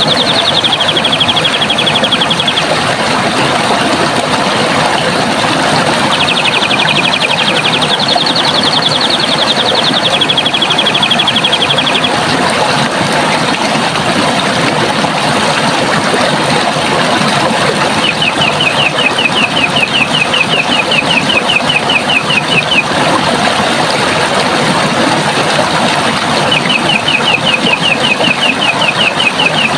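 Running water rushes steadily. Over it, a bird sings rapid high trills of quickly repeated notes in four spells of two to five seconds each, with pauses between.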